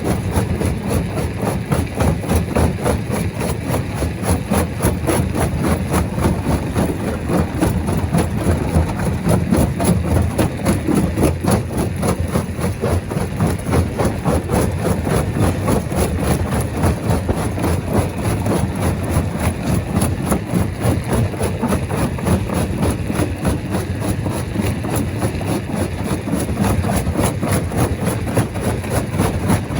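Rock crusher machine running steadily: a continuous heavy mechanical rumble with a fast, dense rattle.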